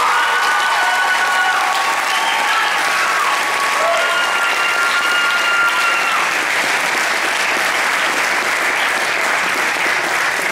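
Audience applauding and cheering at the end of a sung performance, with long held whoops over the first half while the clapping goes on steadily.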